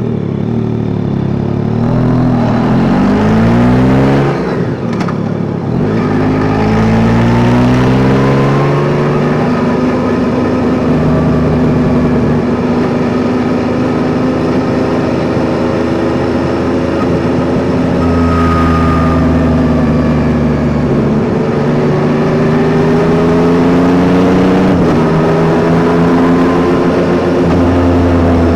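Yamaha Tracer 9 GT's 890 cc inline-three engine pulling through the gears, its pitch rising in steps with short breaks at the shifts, then holding steady at cruise before accelerating again near the end.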